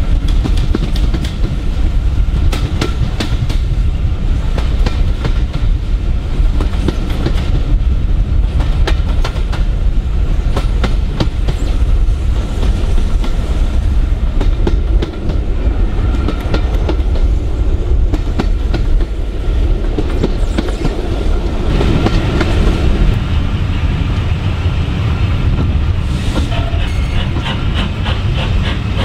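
Running noise of a steam-hauled railway passenger coach heard through its open window: a steady rumble with wheels clicking over the rail joints.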